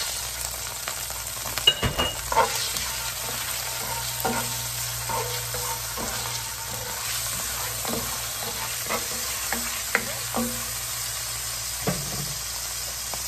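Shrimp and garlic sizzling in hot oil in a frying pan, with a spatula scraping and knocking against the pan now and then as the shrimp are stirred.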